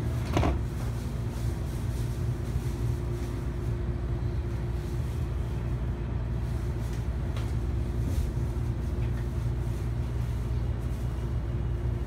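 Steady low hum inside a commuter train car standing at the platform, with a sharp thump about half a second in as the doors slide shut, and a couple of faint knocks later on.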